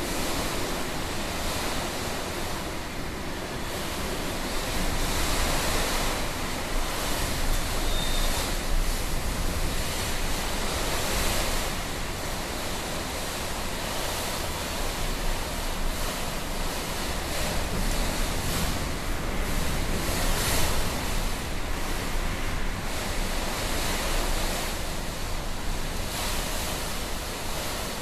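Typhoon wind gusting: a continuous rushing noise that swells and eases every few seconds, with wind buffeting the microphone.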